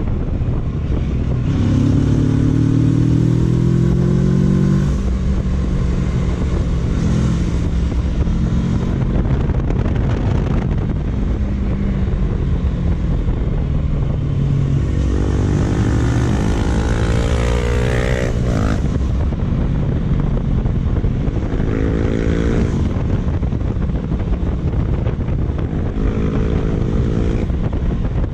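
Kawasaki Versys 650's parallel-twin engine running on the move. Its pitch rises four times as it pulls under throttle, each time falling away as the throttle is eased or a gear is changed.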